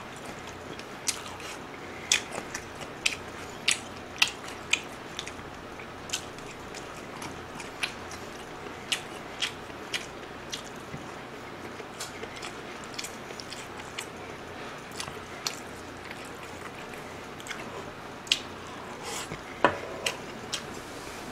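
A person chewing food close to the microphone, with irregular sharp mouth smacks and clicks over a faint steady hiss.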